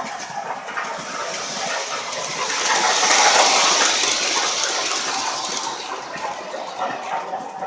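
Lionel R16 model subway train running, with a hissing rush that swells about three seconds in and then fades.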